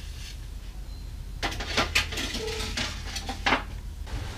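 A few short knocks and light clatters from handling a bare wooden tom shell and its parts, starting about a second and a half in.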